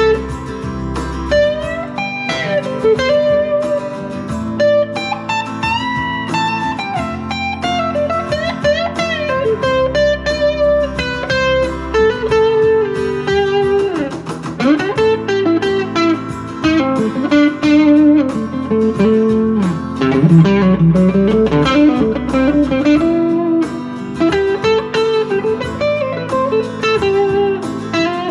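Squier Jaguar electric guitar with single-coil pickups, played through a JHS NotaKlon (Klon-style) overdrive into a Vox AC10 amp. The pedal's switch is on its minus setting. It plays bluesy lead lines with many string bends over a backing track.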